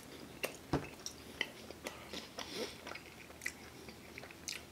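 Close-miked chewing of a mouthful of pepperoni pizza: scattered wet smacks and mouth clicks, with one sharper click a little under a second in.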